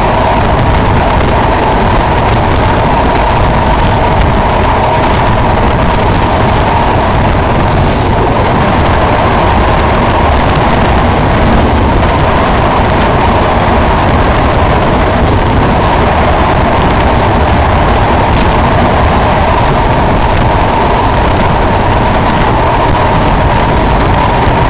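Passenger train running at speed, heard from an open carriage door: a steady, loud rush of wheels on rail and passing air, with a continuous ringing hum in it.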